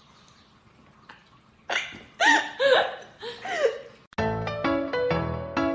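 Four short, high-pitched cries, each rising and falling in pitch. Background music with piano-like notes starts a little after four seconds in.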